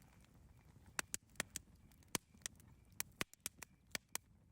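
Wood campfire crackling: irregular sharp pops and snaps, about a dozen in a few seconds, over the low rumble of the burning fire.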